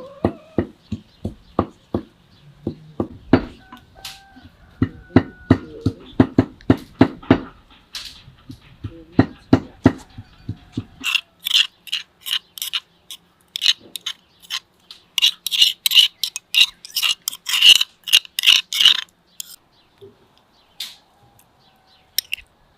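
Food preparation with kitchen utensils: a run of steady dull knocks, about two or three a second, for roughly the first half. These give way to a faster run of sharp, bright clicks that stops a few seconds before the end.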